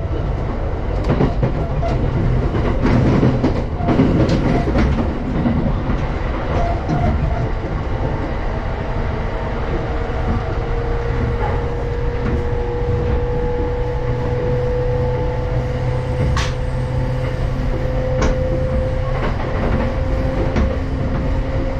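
Commuter electric train running at speed, heard from inside the carriage: steady rumble of wheels on rail with sharp clicks as the wheels cross rail joints and points, several close together near the start and a couple later. About nine seconds in a thin steady whine comes in and rises slightly in pitch.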